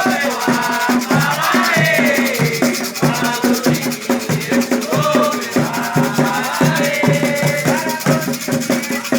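Candomblé ritual music: voices singing a chant to Xangô over a steady percussion beat, with a shaken rattle sounding throughout.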